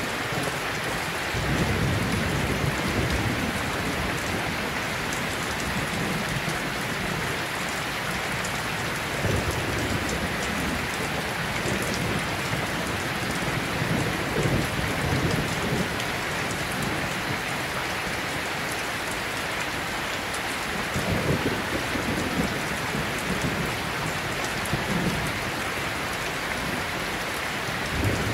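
Steady rain falling, with low rolling rumbles of thunder swelling up several times.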